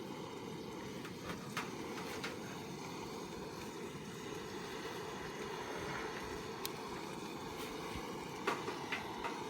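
Wood fire burning in a home-made secondary-combustion fire pit: a steady low rush of flame with scattered crackles and a few sharp pops near the end. The popping is suspected to come from damp firewood.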